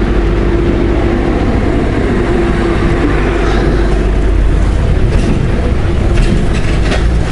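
Honda Gold Wing's flat-six engine running as the motorcycle rolls slowly, a steady low rumble with a faint hum held for the first few seconds.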